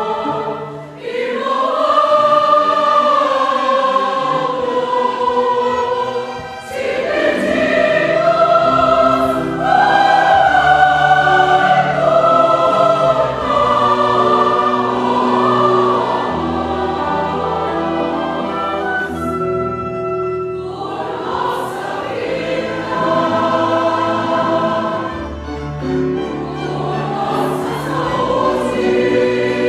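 Choir singing a slow sacred song over an instrumental accompaniment, with long held notes.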